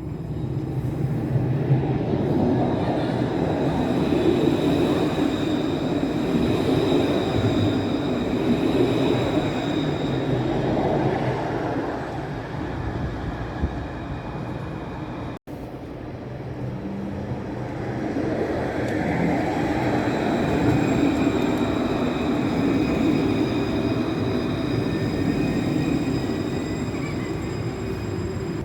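A tram running on its rails: a steady rumble with thin high tones above it, swelling and easing. There is an abrupt break about halfway through, after which the same running sound builds again.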